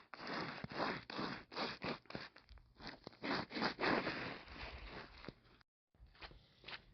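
Footsteps crunching and scraping on ice-glazed ground, an irregular run of crisp steps a couple of times a second, with a brief dropout a little past halfway.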